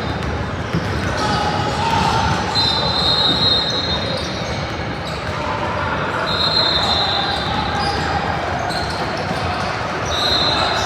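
Basketball game in a gym: a ball bouncing on the court amid crowd chatter, with a high, steady squeal about a second long heard three or four times.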